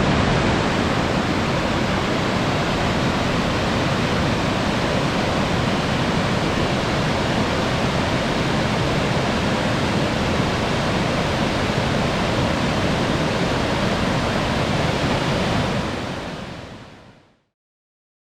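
Steady rushing of a wide, sloping waterfall cascade, water pouring over a drop of about 7 m, fading out near the end.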